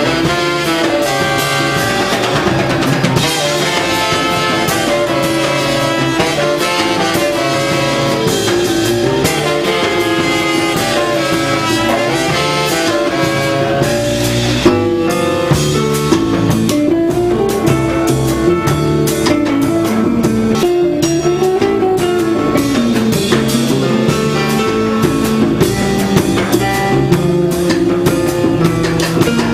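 Jazz quintet playing live: a drum kit keeping time under held, wandering horn melody lines and a full band texture.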